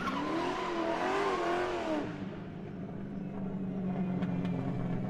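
Car noise: a wavering, rising and falling pitched sound for about two seconds, then, after an abrupt change, a steady low engine drone with a few faint clicks.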